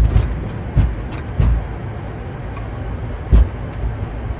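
Boeing 787-9 airliner rolling on the ground after landing, heard from the cockpit: a steady low rumble, with a few sharp thumps as the wheels run over bumps in the pavement.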